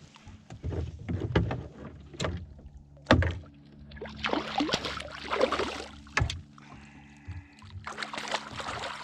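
Knocks and thumps against a kayak, with stretches of splashing or rustling, as a freshly caught cutthroat trout is handled aboard. The sharpest knock comes about three seconds in.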